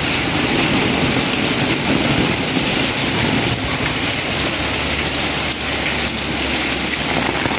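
Heavy rain falling in a steady downpour. A low steady rumble sits under it in the second half.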